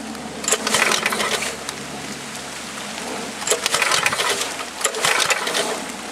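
Recoil starter of a cold 5 HP Tecumseh H50 single-cylinder flathead engine yanked several times with the choke on, each pull a short clattering rattle of the rope and pawls turning the engine over. It is not catching.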